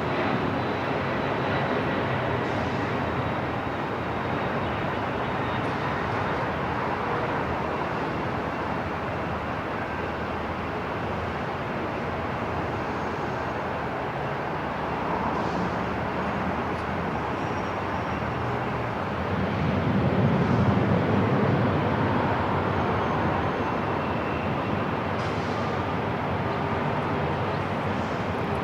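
Airport terminal ambience: a steady wash of background noise and hum. About twenty seconds in, a deeper rumble swells for a few seconds and fades back.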